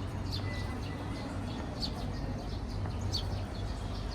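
Small birds giving short, sharp chirps, each one dropping in pitch, repeating about every second and a half over a steady low hum.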